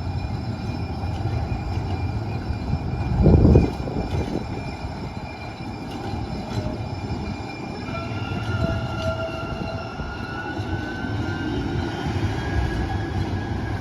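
Muni Metro light rail train running with a steady rumble and one heavy thump about three seconds in. From about halfway through, a thin whine rises slowly in pitch as the train picks up speed.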